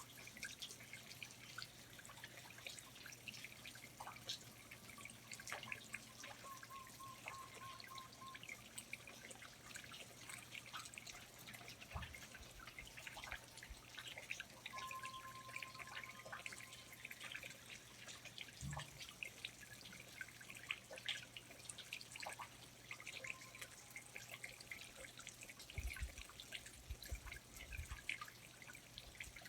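Quiet rainforest ambience of water dripping: many scattered drops patter irregularly from the foliage. Two faint, brief high notes and a few soft low thumps are heard, the thumps clustering near the end.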